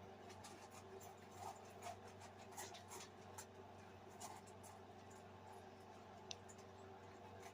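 Faint, scattered small clicks and scratches from a Labrador-mix puppy chewing, over a steady low hum.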